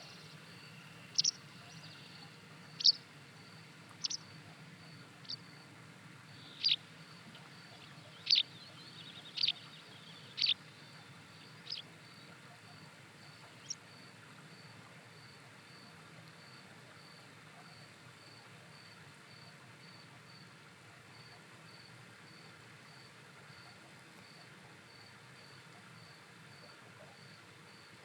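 A bird giving a series of about a dozen short, sharp calls, each dropping in pitch, spaced a little over a second apart and stopping about halfway through. Under them, and continuing alone afterwards, an insect such as a cricket chirps evenly at a high pitch, about twice a second.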